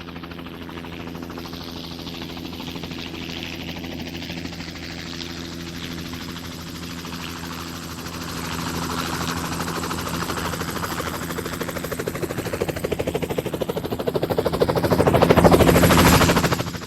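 Helicopter approaching with a steady engine whine and rapid rotor-blade chop, growing louder to its loudest near the end, then cutting off abruptly.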